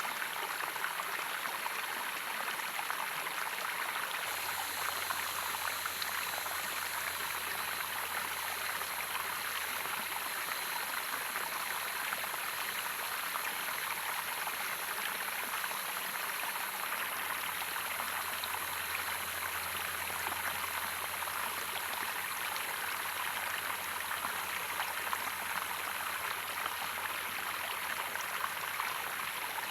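Running water of a stream, rushing steadily and evenly without a break.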